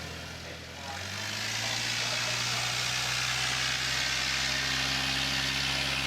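An engine running steadily at idle; about a second in its note shifts up and settles, with a steady hiss over it.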